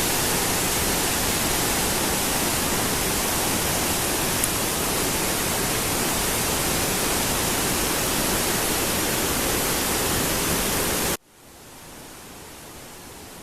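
Steady, loud rush of water, cut off abruptly about eleven seconds in and replaced by a much fainter, steady rush.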